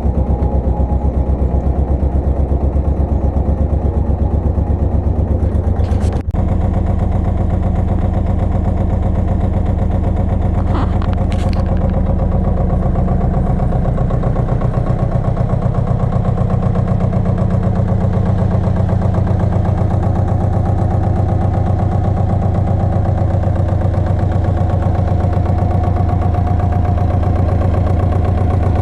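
Pasquali 980 EX tractor engine running steadily with an even, low pulsing note. There is a brief high squeak about six seconds in and another about eleven seconds in.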